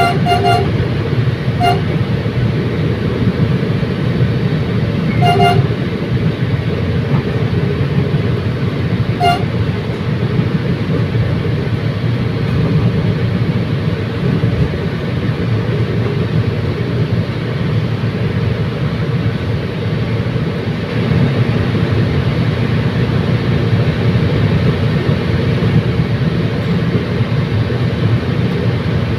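Commuter train running with a steady low rumble, and a few short horn toots in the first ten seconds.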